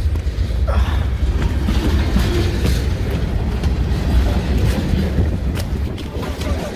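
A train going past close by at speed: rail cars rolling by with a steady low rumble and scattered clicks of the wheels on the rails.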